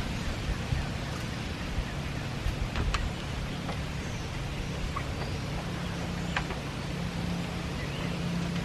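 Outdoor poultry-yard ambience: a steady low hum under a constant hiss, with a few short, high bird chirps scattered through it.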